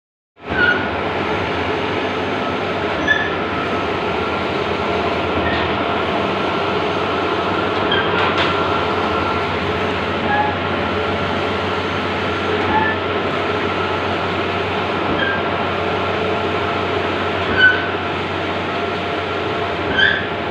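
Large-format outdoor banner printer running: a steady mechanical whir and hum with a few short, high chirps scattered through it.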